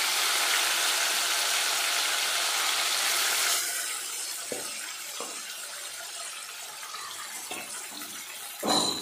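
Marinated chicken sizzling in hot mustard oil in an aluminium handi as it is ladled in. The hiss is loud at first and settles down after about three and a half seconds. A few light knocks of the ladle follow, with a louder one near the end.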